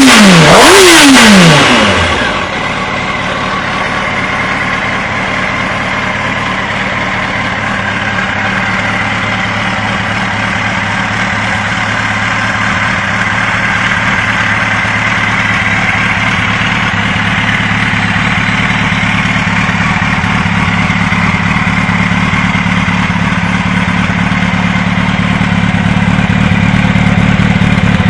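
2004 Yamaha R1's inline-four engine revved twice in quick succession at the start, the revs falling away within about two seconds, then idling steadily.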